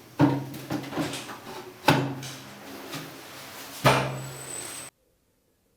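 Three sharp knocks, a little under two seconds apart, each leaving a short ringing hum, from hands-on work mounting a water heater on the wall. The sound cuts off suddenly near the end.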